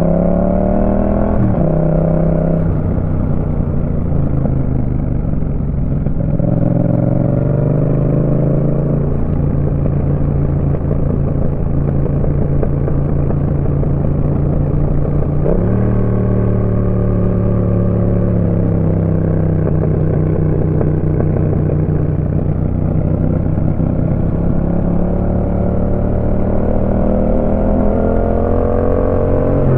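Yamaha MT-07's 689 cc parallel-twin engine breathing through a Roadsitalia aftermarket exhaust while riding. Its pitch rises under throttle and drops sharply at upshifts about a second and a half in and again around nine seconds in. It jumps up suddenly at a downshift about midway, sinks slowly as the bike slows, then climbs again near the end.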